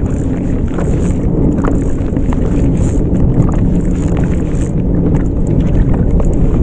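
Wind rumbling steadily on the microphone, with irregular small taps and clicks scattered through it.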